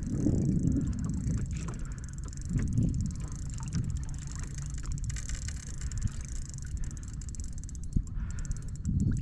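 Water sloshing and lapping against a kayak's hull, swelling in uneven surges.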